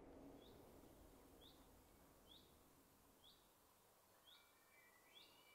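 Near silence as the organ's reverberation fades out. A faint bird chirps, a short note about once a second, and a thin whistled note comes in near the end.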